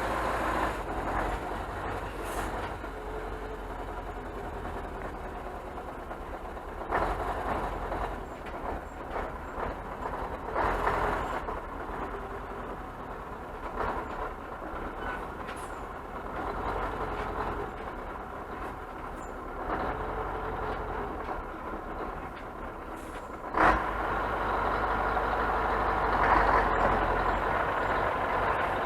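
Scania truck running, a steady low engine rumble with a few swells, and a sudden sharp sound about two-thirds of the way in, after which it runs louder.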